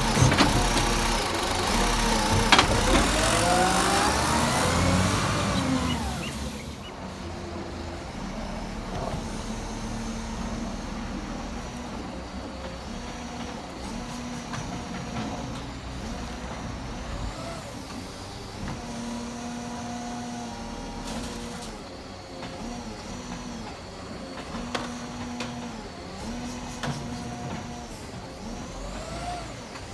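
Garbage truck engine revving up and down for the first few seconds, then dropping back to quieter running with a steady hum that comes and goes.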